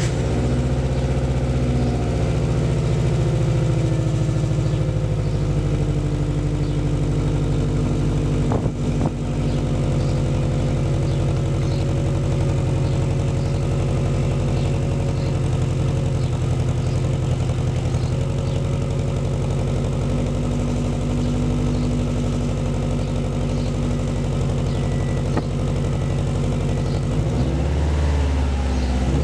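2008 Subaru Forester XT's turbocharged 2.5-litre flat-four idling steadily through an aftermarket Spec-D Tuning exhaust built for a WRX. There is a brief stumble about nine seconds in, and near the end the revs rise in a short blip.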